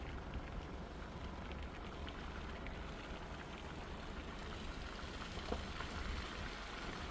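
Light rain: scattered drops ticking over a steady low rumble.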